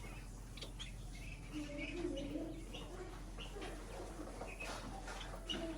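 Small pet birds chirping in short, scattered notes, with a lower wavering call about two seconds in, over a steady low hum.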